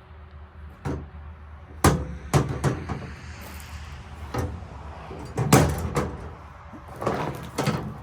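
Irregular knocks and bangs, about eight in some six seconds, the loudest near two seconds in and again at about five and a half seconds: a heavy table saw being shifted and set down.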